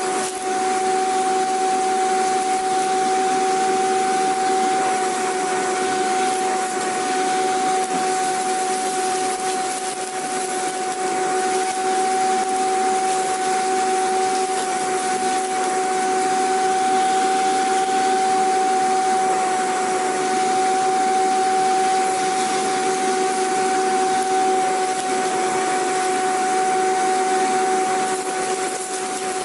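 Vacuum cleaner running continuously: a steady motor whine over a rushing air hiss.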